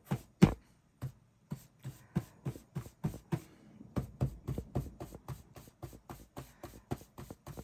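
A two-inch paint brush being tapped repeatedly into wet paint to load its tip: a quick, even series of soft ticks, about four a second, starting about a second in.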